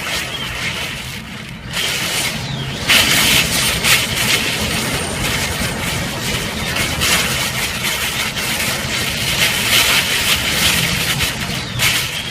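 Typhoon wind and driving rain, surging in gusts a couple of seconds in and again near the end, over a steady low hum.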